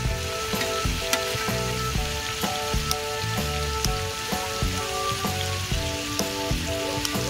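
Pork belly sizzling as it fries on a cast-iron pot lid, a steady hiss of spitting fat. Background music with a steady beat plays over it.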